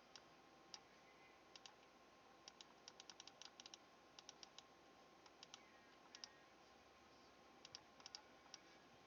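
Faint, scattered light clicks over near-silent room tone, some in quick runs of several clicks, like keys being tapped on a computer keyboard.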